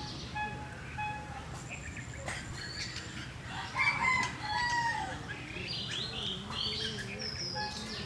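Birds chirping and calling around a fruiting papaya tree, with a louder call of about a second, falling in pitch, about four seconds in.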